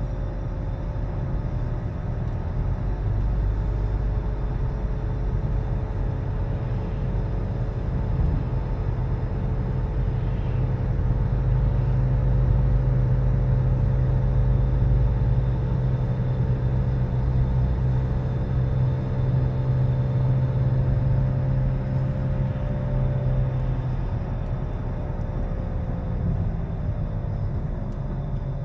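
2013 Nissan Altima on the road: a steady low rumble with a loud humming drone whose pitch follows road speed, dipping near the end. The hum is the sign of a worn wheel bearing.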